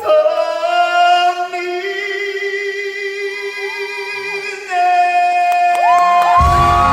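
A male pansori singer's voice holding long sustained notes with little or no accompaniment, stepping up to a higher held note about five seconds in. Near the end a band comes in underneath with a deep bass.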